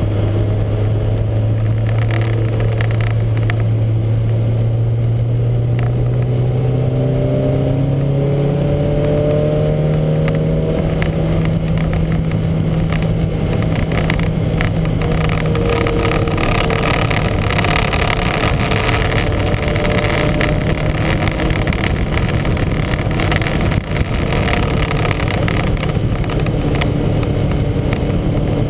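Lancia Montecarlo race car's four-cylinder engine running hard, its note climbing slowly through the first half, then falling back and running steadier. The engine has a huge misfire.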